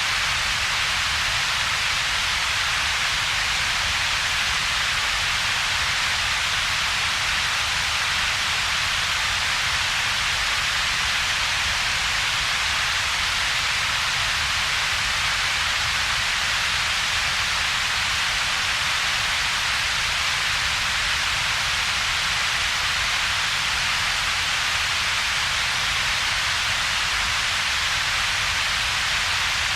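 Synthetic double-peaked coloured noise, perfectly steady: a bright hiss strongest in the upper middle range over a weaker low rumble, with a hollow gap between the two.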